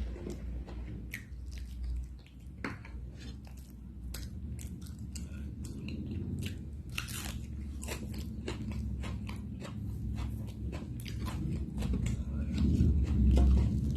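Close-miked chewing and biting of food, with many short mouth clicks and crunches. A louder low rumble comes in near the end.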